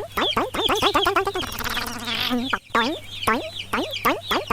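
Chickens clucking: a quick run of short falling calls, then a longer held call about a second and a half in. The same run starts over shortly after a brief dip around two and a half seconds.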